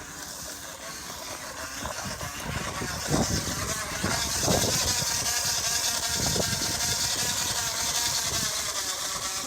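Plastic water bottle on a bicycle wheel, slapped by the turning spokes in a fast rattling buzz that sounds like a small motorcycle engine. It grows louder over the first few seconds, then holds steady.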